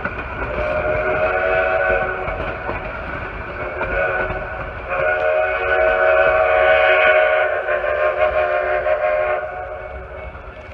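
1880 Train steam locomotive's whistle blowing several long blasts of a chord of steady tones, the longest and loudest in the middle, cutting off about nine and a half seconds in, over the low rumble of the train.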